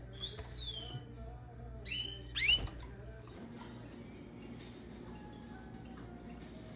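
Canaries chirping: a falling whistled call note near the start, two loud rising chirps about two seconds in, then a run of quick, high, thin chirps.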